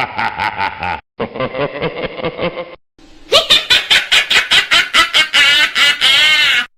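Three laughter sound effects in a row, each cut off cleanly with a short silence between. The last is the loudest: a fast, rhythmic laugh with wavering pitch.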